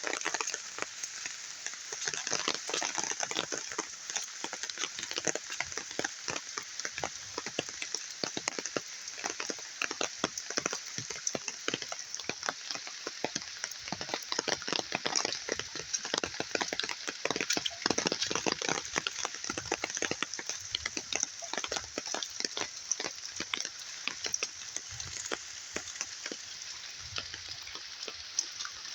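Flowing floodwater: a steady, dense crackle of many small splashes over a hiss.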